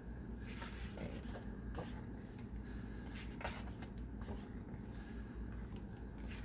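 Pages of a children's storybook being handled and turned: a handful of short paper rustles over a low steady hum.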